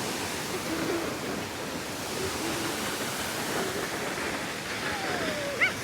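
Steady rush of the Hunua Falls waterfall: an even hiss of falling water with no breaks.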